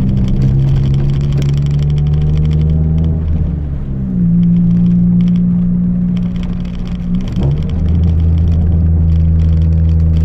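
Chevrolet Celta 1.0 four-cylinder engine running through a 4-into-1 header and a two-inch straight exhaust with no mufflers. The engine holds a steady pitch, climbs to a higher steady pitch about four seconds in, and drops back down about seven and a half seconds in.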